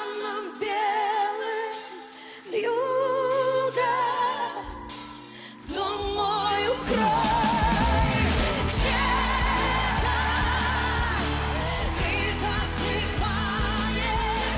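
Pop song: a woman's voice singing long notes with vibrato over a soft backing. The bass comes in about five seconds in, and the accompaniment grows fuller a couple of seconds later.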